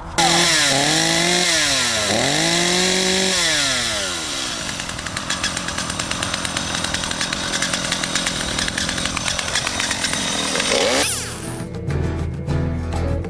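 Two-stroke chainsaw revving up and down a few times, then running steadily at high speed until its pitch falls away about eleven seconds in. Guitar music comes in near the end.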